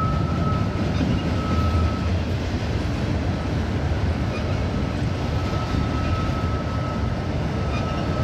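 Union Pacific freight train climbing a grade: a steady low rumble of its diesel locomotives and rolling autorack cars. A thin high-pitched squeal fades out about two seconds in and returns about five seconds in.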